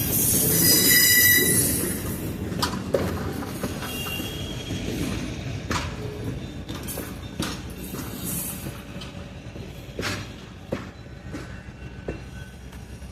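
Excursion train's wheels squealing against the rails for the first second or two, then the train rolling on with a steady rumble and irregular sharp clicks from the wheels, slowly getting quieter.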